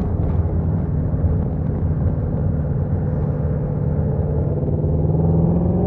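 Stock Ford Shelby GT350's 5.2-litre flat-plane-crank V8 running in second gear with its exhaust valves open. Its steady drone starts to climb in pitch near the end as the engine revs up.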